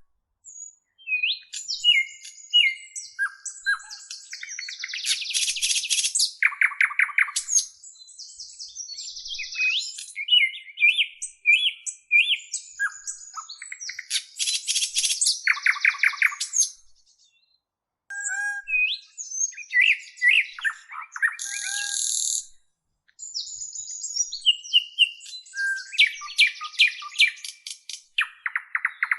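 A small songbird singing a long, varied song of whistled glides, quick chirps and buzzy trills, in phrases that repeat every several seconds, with a short break a little past halfway.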